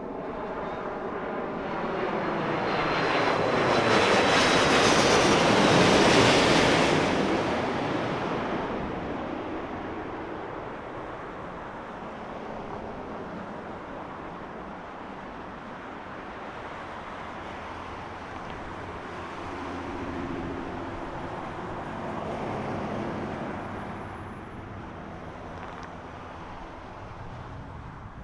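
Airbus A330-200 jet airliner with Pratt & Whitney PW4000 engines passing low overhead on approach: a jet roar that builds to a peak about five seconds in, with tones falling in pitch as it goes by, then fades into a long rumble that swells again briefly around twenty seconds in. Wind noise on the microphone throughout.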